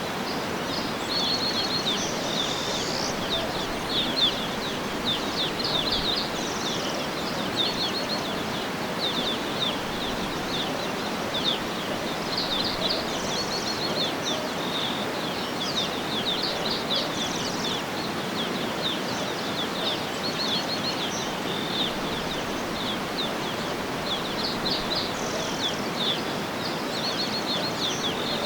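Small birds chirping in quick, high trills that recur every second or two, over a steady rushing background noise.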